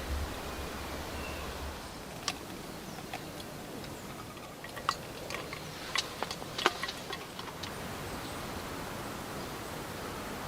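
Steady rain falling, with a run of a dozen or so sharp cracks and ticks in the middle.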